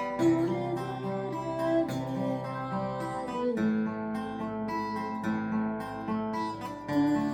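Acoustic guitar strummed in slow chords, the chord changing about three and a half seconds in and again near the end.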